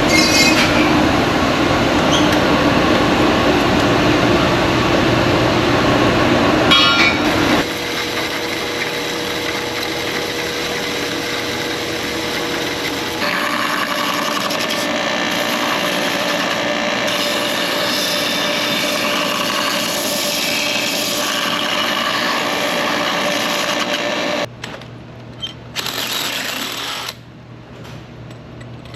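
Loud, steady rapid mechanical running, like a machine or power tool, shifting in character twice and falling away sharply near the end.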